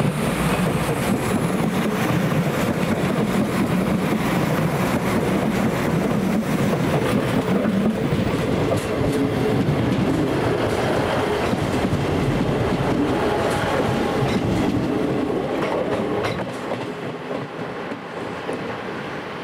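A train running along the station tracks, its wheels clicking over rail joints in a dense, steady rumble that fades over the last few seconds.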